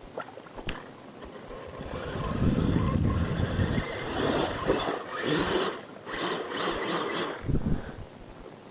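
Mud truck motor revving in bursts with a high whine that rises and falls in pitch, over a rushing, churning noise.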